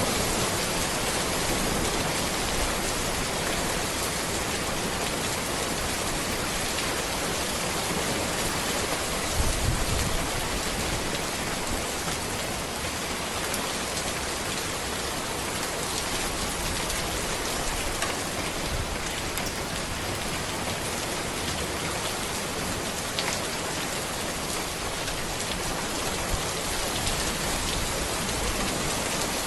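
Steady rain falling on a road and trees, a dense even hiss with scattered drop patter. About nine seconds in there is a brief low thump.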